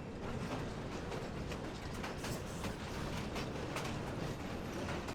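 Passenger train cars rolling along the track: a steady rumble with frequent irregular clanks and knocks from the wheels and couplings.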